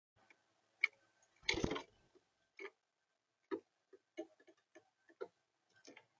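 Irregular taps and clicks on a bird feeder, picked up close by the feeder camera's own microphone, as a visitor moves and pecks at it. One louder thump with a rustle comes about a second and a half in.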